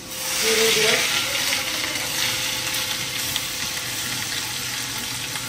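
Ginger-garlic paste and chilli masala sizzling in hot oil in a kadhai while a wooden spoon stirs it. The frying hiss swells in the first second, then settles to a steady sizzle.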